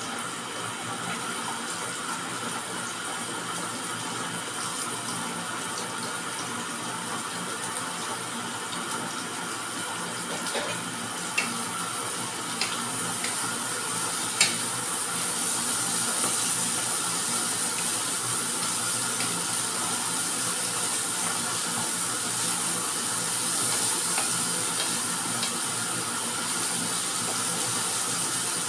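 Vegetables and fish balls sizzling in a hot frying pan, a steady hiss that grows a little louder about halfway through as they are stirred. A few sharp clicks of a wooden spatula against the pan come just before the middle.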